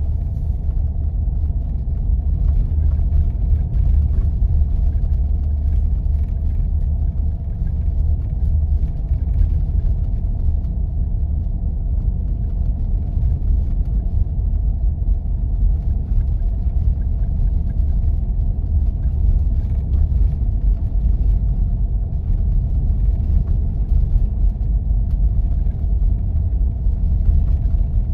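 4x4 vehicle driving on snow-covered roads: a steady low rumble of engine and tyres that holds even throughout.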